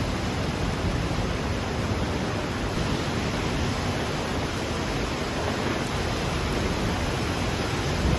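Heavy rain falling steadily during a thunderstorm, an even hiss with no distinct thunderclap.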